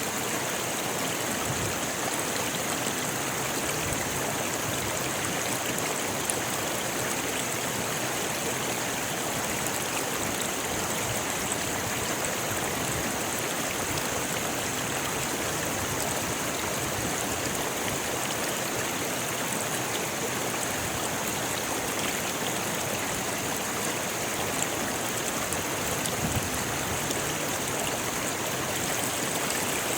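A rocky river rushing steadily over stones, a constant even noise of water.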